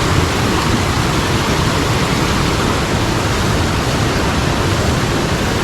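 Steady, loud rush of water from a mountain stream tumbling over rocks and small falls.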